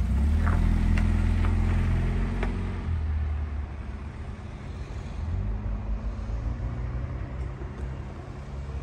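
A small hatchback's engine running as the car pulls away from the kerb on a snowy street. It is loudest for the first three seconds, then drops to a quieter, steady engine hum, with a few light clicks early on.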